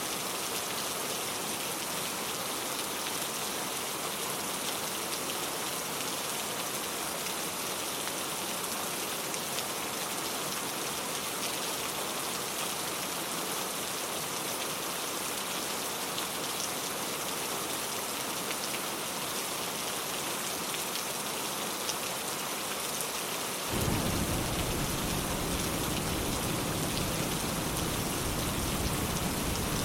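Steady rain falling, a dense patter of drops. About three-quarters of the way through, a low rumble of thunder comes in suddenly and keeps going under the rain.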